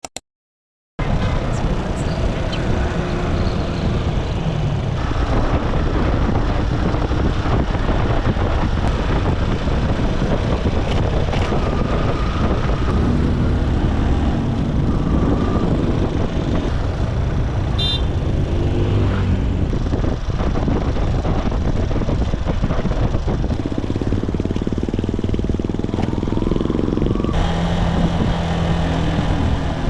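Motorcycle engine running under way, with road noise, starting abruptly about a second in and continuing steadily.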